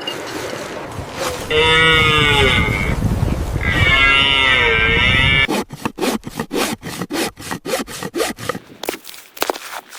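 Two long animal calls, one after the other, each rising and falling in pitch. They are followed by a fast, even run of short sharp sounds, about three a second.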